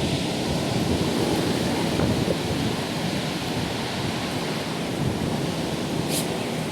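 Strong, gusty wind of a cold front blowing steadily and buffeting the microphone, with a brief high hiss about six seconds in.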